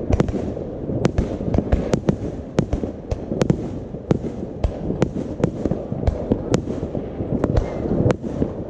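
Fireworks exploding all around: an irregular run of sharp bangs, about two or three a second, over a steady low rumble of more distant explosions.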